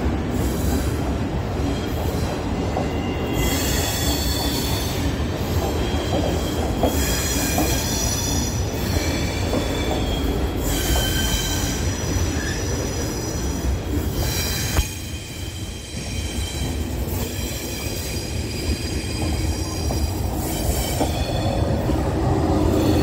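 SNCF TGV inOui high-speed train moving along a station platform with a steady low rumble. Repeated high-pitched squeals come and go over it for several seconds at a time, with a brief dip in loudness about halfway through.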